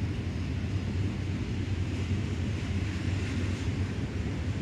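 Train running past at a distance: a steady low rumble with a hiss that swells slightly about three seconds in, with some wind on the microphone.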